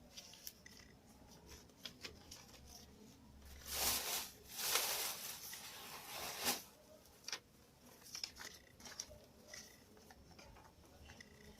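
A sheet of paper being handled and folded, rustling and crinkling, with small taps and ticks, and two louder rustles about four and five to six and a half seconds in.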